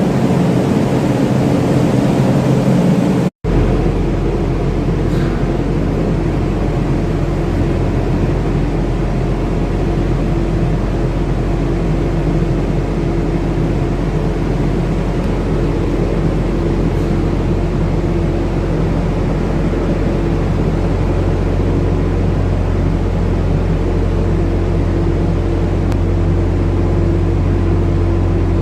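Ship's engine-room machinery running: a loud, steady drone with a deep hum. The sound cuts out for an instant about three seconds in, then carries on unchanged.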